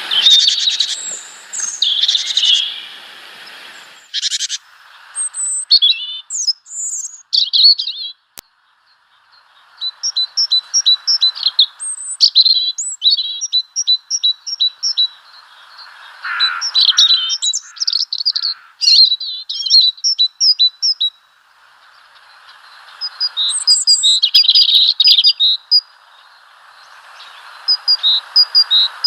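Small songbirds chirping and twittering in bursts of short high notes and quick trilled runs, with a brief lull about a third of the way through.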